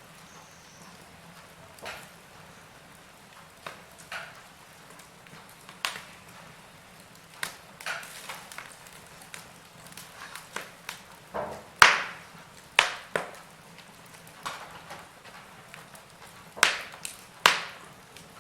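Wood fire burning in a fireplace, crackling with irregular sharp pops and snaps over a faint steady hiss, a few louder pops about two-thirds of the way through and near the end.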